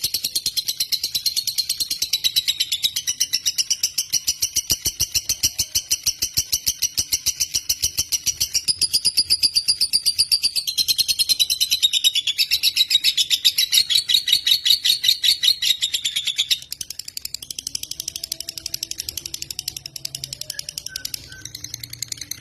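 Lovebird singing a long, fast, rattling trill of rapid high chirps, its pitch shifting every few seconds. About three quarters of the way through it suddenly drops to a softer, thinner chatter.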